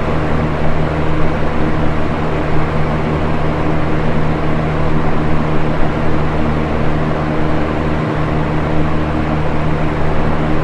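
Box fan running steadily: an even rush of moving air over a steady low motor hum.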